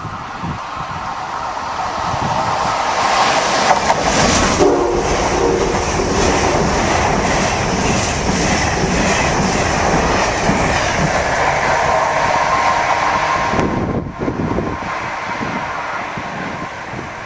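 Amtrak passenger train with an AEM-7 electric locomotive passing at speed: a loud rushing roll with wheels clacking over the rail joints. A brief horn sounds about five seconds in. The passing noise drops off sharply about fourteen seconds in.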